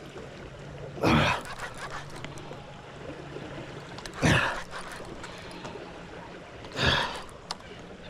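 A man's strained gasping exhales, three of them about three seconds apart, as he heaves against a heavy fish on the line.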